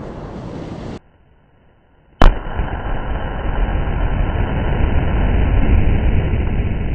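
The rumble of a tannerite explosion dying away. After a short quiet gap, a single sharp blast about two seconds in: a rifle-shot tannerite target detonating. A long, loud, low rumbling noise follows it.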